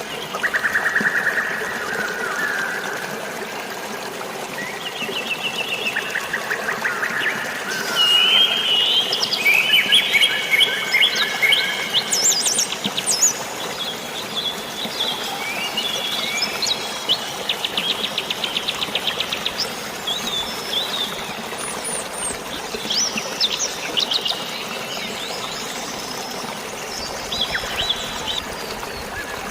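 Several birds chirping and singing, with quick trills and short calls overlapping, busiest through the middle, over a steady hiss of running water.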